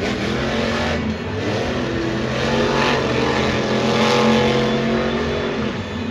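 Monster truck's supercharged, alcohol-fuelled engine running hard, its pitch rising and falling as the throttle is worked and easing off near the end.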